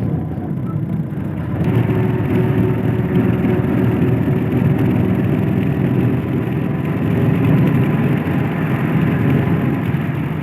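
Steady rumble of a moving vehicle, a little louder from about two seconds in.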